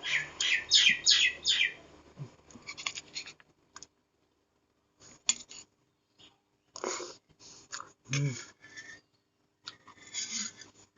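Close-up mouth sounds of eating fried instant noodles (mie goreng): a quick run of about five wet smacking and slurping sounds in the first two seconds, then sparser chewing clicks with silent gaps, and a couple of short voiced hums around the middle.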